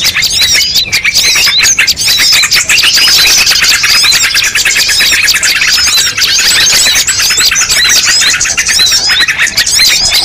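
Many small birds chirping and twittering at once, a dense overlapping chorus of quick high chirps. It is a bird-lure call recording, played to draw wild birds in.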